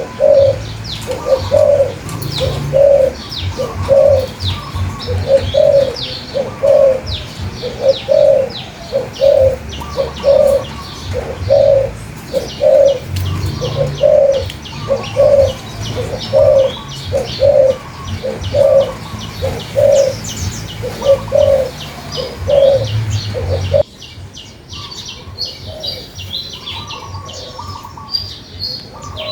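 Birds singing: a low cooing call repeated about once a second over many small birds' quick high chirps. About 24 seconds in, the recording cuts abruptly: the cooing and a low rumble stop, and quieter chirping carries on.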